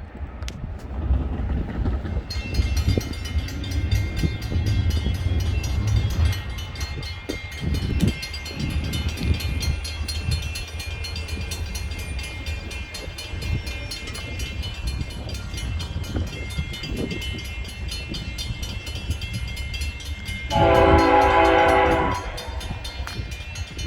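A train running by with a low rumble and a rapid, even ticking, then one train horn blast of about a second and a half near the end.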